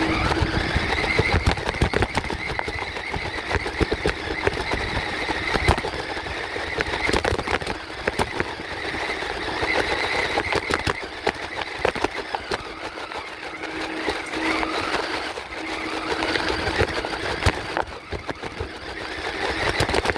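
RC truck running, its motor whine rising and falling in pitch as it speeds up and slows, over a constant clatter of small clicks. It starts suddenly.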